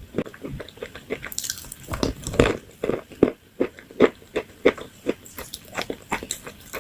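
Close-up chewing and biting of crunchy food: a quick run of sharp crunches, about two to three a second, with a louder burst of crackling about one and a half seconds in.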